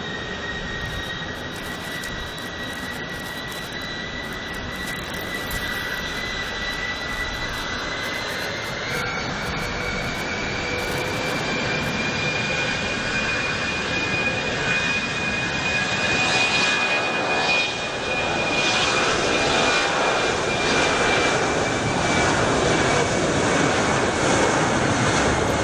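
The four turbofan engines of an Ilyushin Il-76TD at takeoff power during the takeoff roll: a steady engine noise with a high whine that steps up in pitch about nine seconds in, growing louder throughout.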